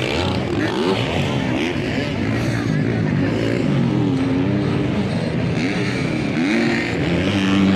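Several motocross bike engines revving up and down as they race, their pitches rising and falling and overlapping.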